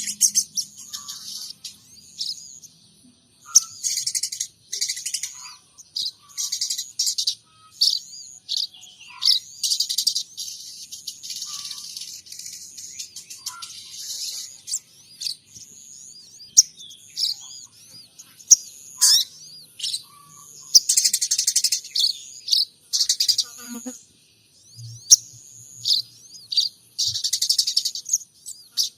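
A sogon trotol songbird singing in dense bursts of high, fast chirps and trills with short pauses between, its song holding mimicked calls of munias and Eurasian tree sparrows.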